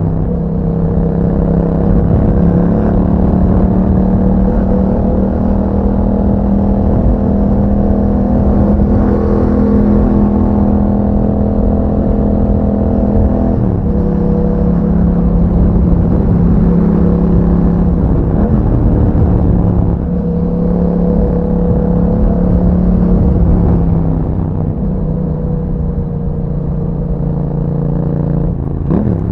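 Yamaha MT-07's 689 cc parallel-twin engine running through an Akrapovic exhaust while the bike is ridden, holding a fairly steady note. There are brief breaks in the engine note about halfway through and again near the end.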